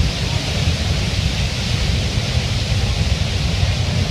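Steady roar of the waterfall, an even rushing hiss over a low rumble, with wind buffeting the microphone.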